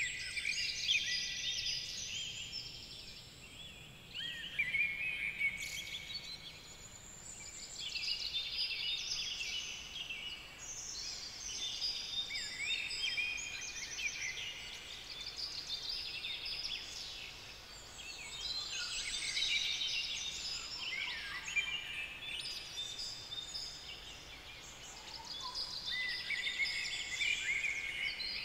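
Songbirds singing: quick high chirps and trills that come in phrases of a few seconds, with short pauses between.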